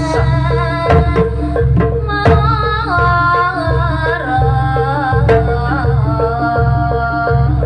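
Jaranan gamelan music: hand drums beat a driving pattern under quick, repeating pitched metal strikes, and a wavering melody line comes in about a second and a half in.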